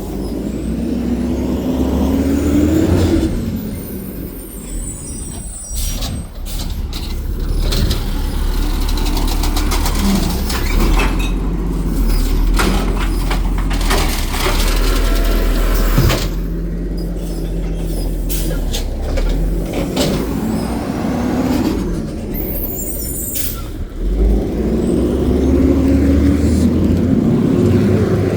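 Garbage truck working a collection stop: the diesel engine revs up twice with a rising note while hydraulics cycle, its air brakes hiss, and there is clanking and knocking of cans and metal in between.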